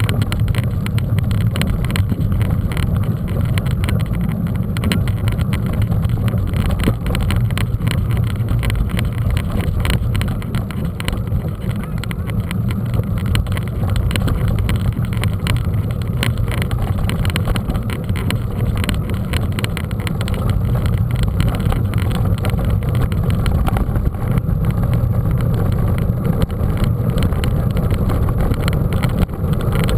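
Mountain bike riding over rough ground: a steady low rumble with constant small rattles and knocks.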